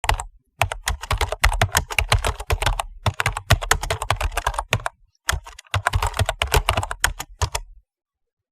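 Fast, irregular keyboard typing: rapid keystroke clicks in runs, with short pauses twice, stopping shortly before the end.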